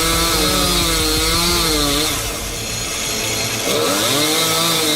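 Chainsaw engine running under load, its pitch rising and falling as it is throttled and bogs in the cut. It eases off about two seconds in, then picks back up.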